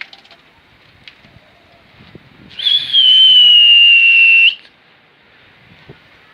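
One loud, shrill whistle lasting about two seconds, starting a little over two seconds in: it dips in pitch at the start, then holds nearly steady and stops abruptly.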